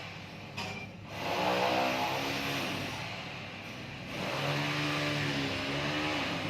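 A motor vehicle engine revving up and easing off, in two long swells of rising and falling pitch.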